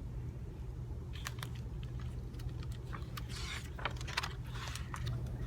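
Steady low electrical hum with scattered faint clicks and short rustles, like small handling noises.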